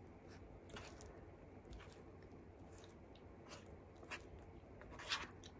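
Faint, close-up chewing of rice and sautéed string beans with sardines, with a few soft wet mouth clicks and a slightly louder smack about five seconds in.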